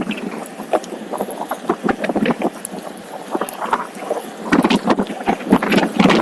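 Wind buffeting the microphone of a moving Onewheel electric board, with a dense run of irregular clicks and knocks as it rolls over the ground, growing louder about two-thirds of the way through.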